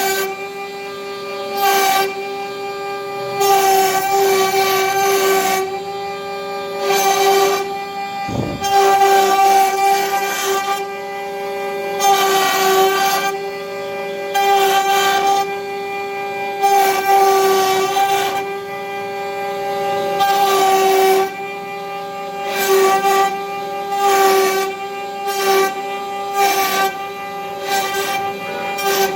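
CNC router spindle running with a steady whine while its bit carves wood, the cutting noise swelling and dropping every second or two as the tool moves along its path.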